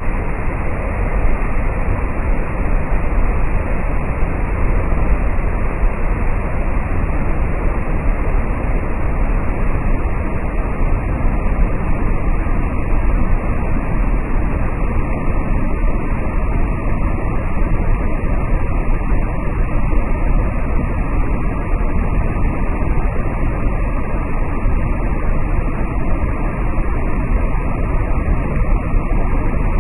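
Large waterfall swollen by rain, its water falling in a steady, unbroken rush, heaviest in the low end.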